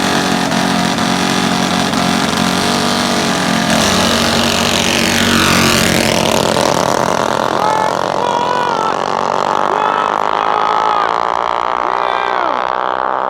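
Mini bike engines running hard, with one sweeping past around four to six seconds in, then an engine's pitch climbing steadily. Short shouts come in over it near the end.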